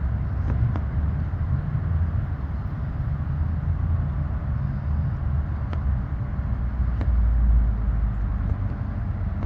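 Steady low outdoor rumble, swelling a little near the end, with a few faint clicks.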